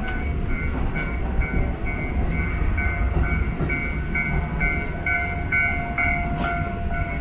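Diesel-hauled Kushiro Shitsugen Norokko train pulling away from a station, heard from inside the car: a steady running rumble. Over it, a two-tone ding repeats about twice a second, growing louder toward the end.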